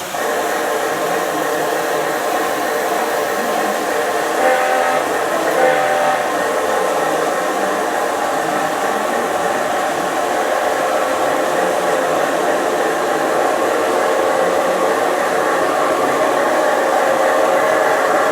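LGB G-scale model train running along garden-railway track with a steady whirring rumble. Two short tones stand out a little after four seconds and again near six seconds in.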